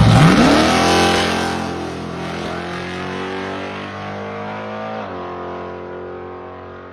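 Car engine revving hard and accelerating: a steep rise in pitch at the start, then a slow steady climb, a drop in pitch about five seconds in as it shifts gear, growing fainter throughout.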